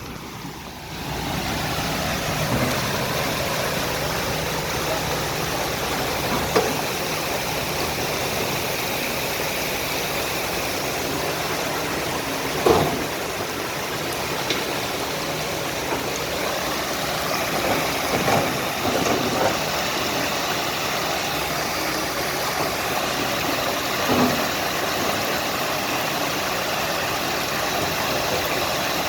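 Steady rush of rainwater flowing across a road, mixed with vehicle engines running, with a few short knocks.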